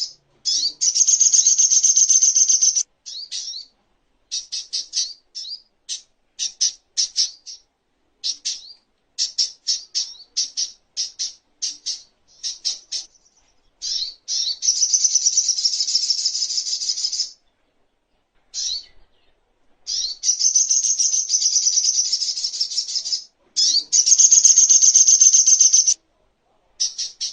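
Little spiderhunter (songon, sogok ontong) singing: long, high, very rapid chattering trills of about three seconds each, alternating with runs of short, sharp, separate high notes.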